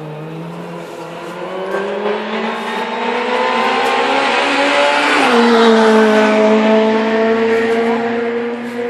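Rally car approaching under hard acceleration, its engine note climbing steadily. About five seconds in the note drops sharply as the car passes, then holds at a lower pitch as it pulls away.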